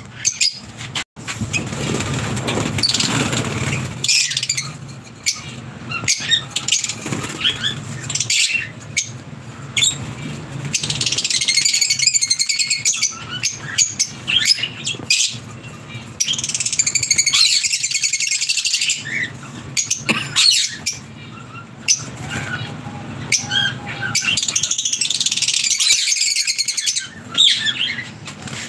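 A group of small birds chirping busily in spells, with wings fluttering and short knocks and taps among them.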